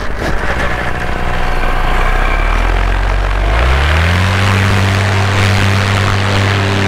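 Paramotor engine and propeller throttling up for a foot launch. A rushing noise at first, then about three and a half seconds in the engine note climbs and holds steady at high power.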